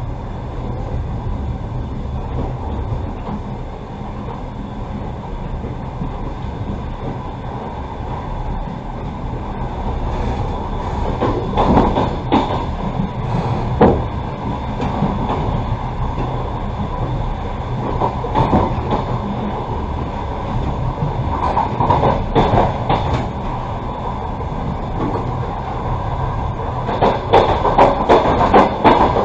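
Passenger train carriage running along the track with a steady low rumble. Groups of sharp wheel clacks over rail joints come several times, loudest near the end.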